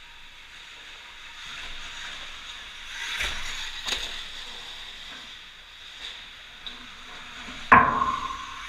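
Electric motocross bike riding on a dirt track: a thin steady motor whine over tyre and track noise, a couple of knocks, then a loud thump near the end after which the motor's whine drops in pitch and settles.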